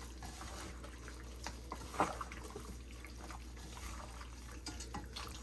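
Faint wet squishing and small clicks from gloved hands working curry-seasoned raw chicken, the strongest about two seconds in, over a low steady hum.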